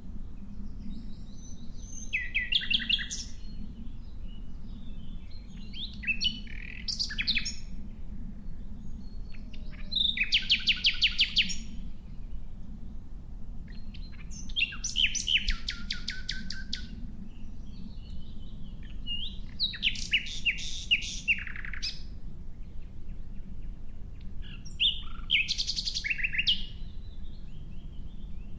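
Nightingale singing in separate phrases of rapid repeated notes and trills, about six phrases spaced four to five seconds apart, over a steady low background rumble.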